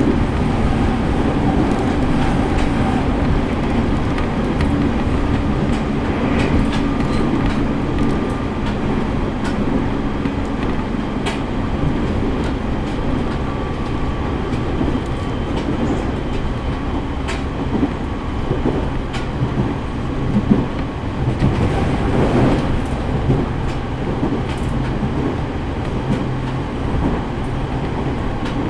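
Running noise heard from inside a JR East E501 series electric train travelling at speed: a steady rumble of wheels on the track with scattered short clicks from rail joints and steady motor tones.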